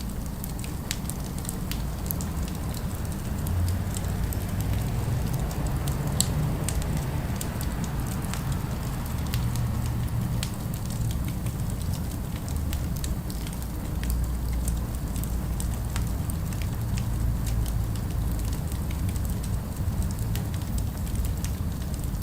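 Wood fire crackling, with scattered sharp pops at irregular intervals over a steady low rumble of city ambience.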